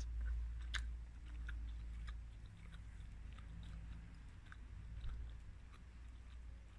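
A person chewing a mouthful of chicken and instant noodles, with faint scattered wet mouth clicks.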